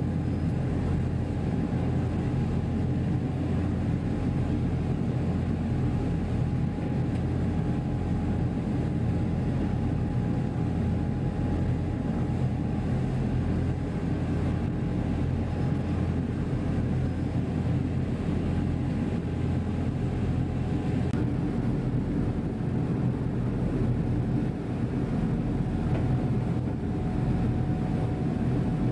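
Steady, deep drone of a passenger ferry's engines heard aboard, with a faint steady hum over it.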